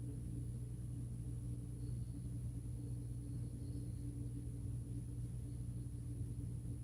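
Diesel locomotive engine running steadily: a low, even hum that does not change.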